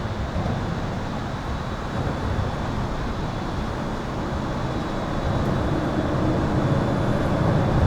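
Highway traffic heard from under an overpass: a steady rush of tyres and engines that grows louder over the last few seconds as vehicles pass. A faint, steady, high-pitched tone runs above it.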